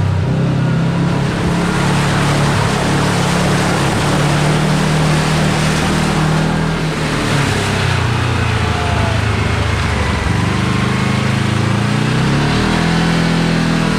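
Kawasaki Teryx KRX4 1000 side-by-side's parallel-twin engine running under way, its pitch easing lower about halfway through and climbing again near the end, over steady tyre and trail noise.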